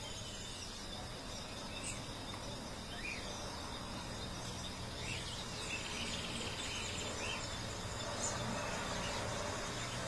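Outdoor ambience: a steady background hiss with a few faint, short bird chirps scattered through it.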